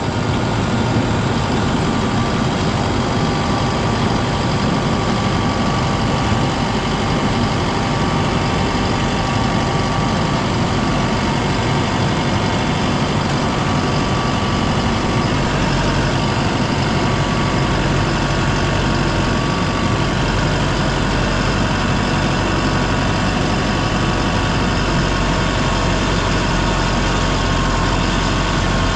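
Tractor engine running steadily and loudly while packing silage on the pile.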